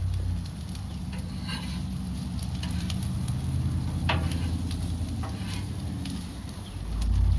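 Diced onion and sweet pepper sizzling in butter, with a few scrapes and taps of a utensil stirring them. A low rumble underneath grows louder near the end.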